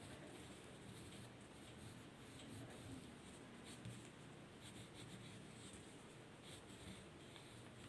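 Faint scratching of a drawing tool on paper, short strokes repeating irregularly.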